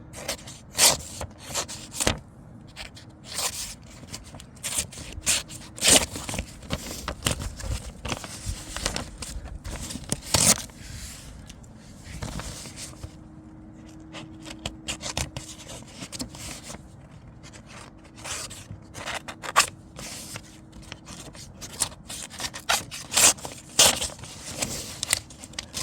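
A freshly sharpened knife slicing through paper: a series of short, irregular slicing and rustling strokes as the blade cuts the sheet, a sign of a restored edge.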